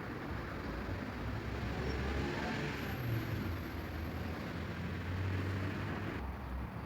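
Outdoor background noise: a steady low rumble with hiss, swelling slightly a couple of seconds in, like distant road traffic.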